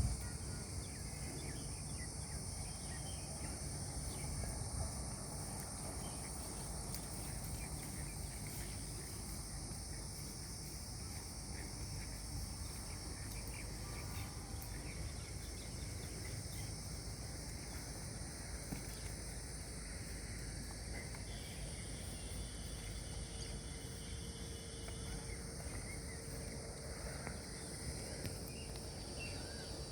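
Steady high-pitched chorus of insects, over a continuous low rumble.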